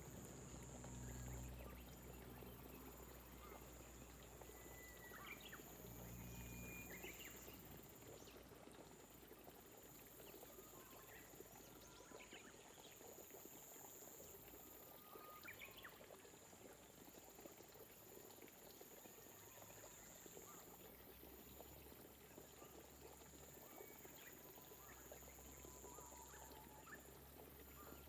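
Faint gentle rain with scattered short bird chirps. A steady high-pitched trill cuts in and out every few seconds.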